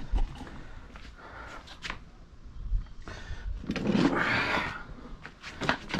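Scattered light clicks and knocks of car seat hardware being handled, with a longer rushing noise about four seconds in.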